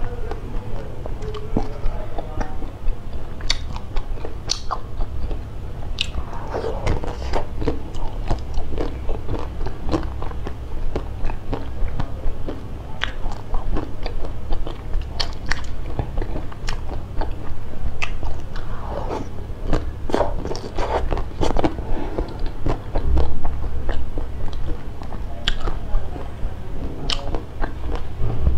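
Close-miked eating: bites into small brown food cubes and steady chewing, with many short, sharp mouth clicks throughout.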